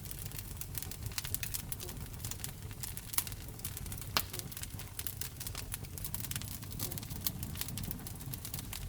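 Wood fire burning in a fireplace: dense, irregular crackling and small pops over a low, steady rumble of the flames, with a couple of sharper pops about three and four seconds in.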